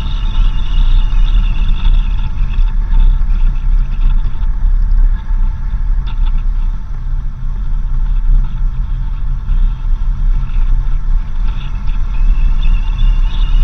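A 4x4 vehicle driving on a dirt road: a steady low rumble of engine and tyres, with a steady high whine over it that weakens midway and comes back near the end.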